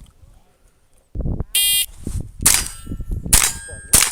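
An electronic shot timer beeps once, then three quick .22 rimfire shots follow over the next two seconds, each trailed by a metallic ring from steel targets being hit.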